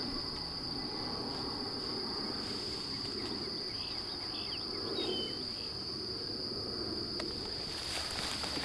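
Steady high-pitched insect drone, with faint short chirps in the middle and rustling near the end.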